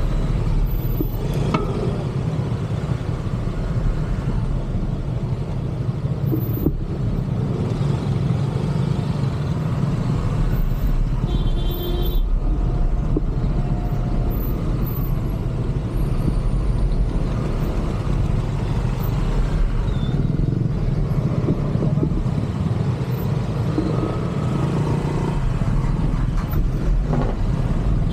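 Steady city road traffic: motor vehicle engines and tyre noise, with a couple of short high beeps.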